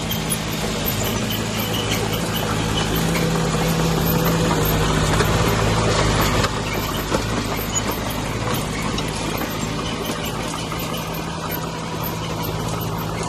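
Heavy diesel engine of earthmoving machinery running steadily; it grows louder for a few seconds and then drops back abruptly about six and a half seconds in.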